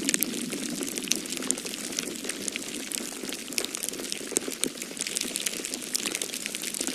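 Wood fire crackling in a fireplace, with many sharp pops and snaps at irregular moments, over a steady rush of snowstorm wind.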